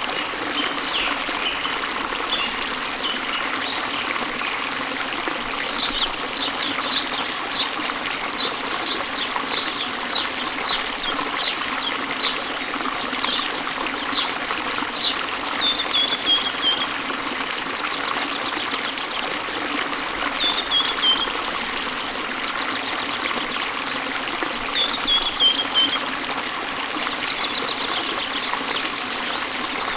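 Waterfall water running steadily, with birds singing over it: a run of quick high chirps, then short falling phrases a few times.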